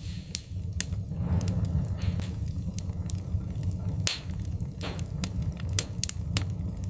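Wood fire crackling: irregular sharp pops and snaps over a steady low rumble of the flames, with a few brief hissing swells.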